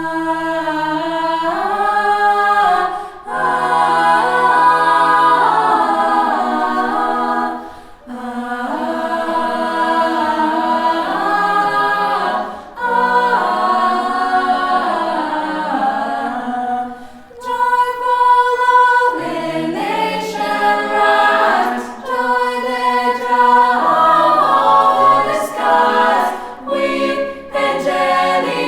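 Unaccompanied choir singing, in phrases with short pauses between them.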